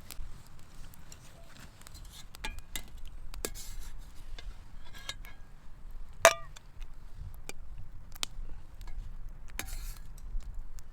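Light clicks and taps of camp tableware and utensils being handled, with one loud ringing clink about six seconds in.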